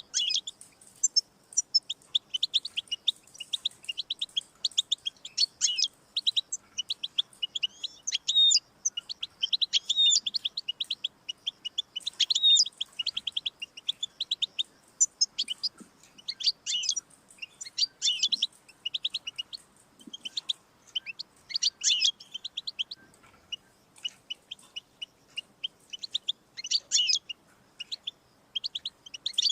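European goldfinch singing: fast, high twittering and trills in long phrases broken by short pauses.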